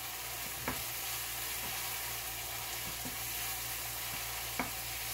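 Onion-tomato masala sizzling in a nonstick kadai over a gas flame as a spatula stirs it, with a steady frying hiss. There are two sharp knocks of the spatula against the pan, about a second in and again near the end.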